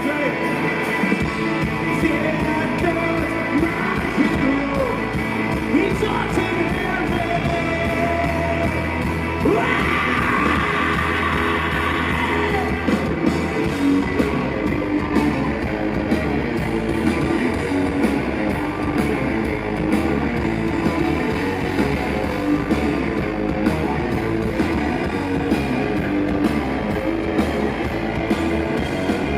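Live rock band playing loud, with electric guitars, drums and singing.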